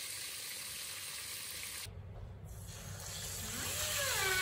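Seasoned chicken deep-frying in hot oil, giving a steady sizzling hiss that changes abruptly a little under two seconds in. A voice comes in with a rising and falling pitch near the end.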